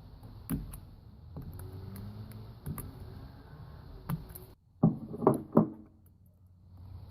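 A steel pick clicking and tapping against metal as it pries an old valve stem seal off a Toyota 1ZZ cylinder head. The clicks are scattered, with three sharper, louder ones in quick succession about five seconds in.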